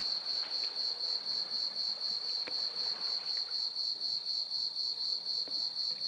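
Crickets chirping: a steady, high-pitched trill pulsing evenly several times a second, with a couple of faint clicks.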